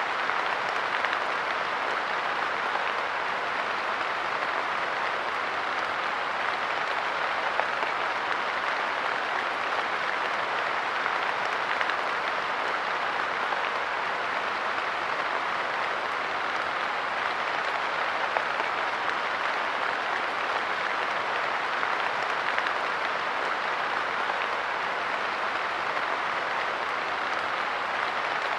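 Light rain falling steadily, its drops pattering on a park bench and the ground around it as a dense, even hiss with the odd louder drip.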